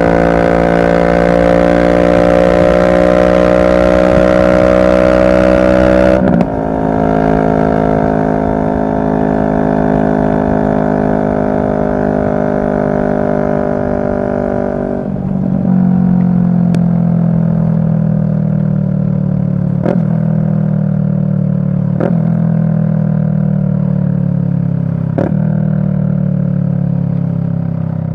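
2023 CFMoto 650NK's parallel-twin engine under way. It pulls up in pitch, drops suddenly about six seconds in as it shifts up a gear, and pulls up again. About halfway it drops once more and then winds down slowly, with a few sharp clicks in the last third.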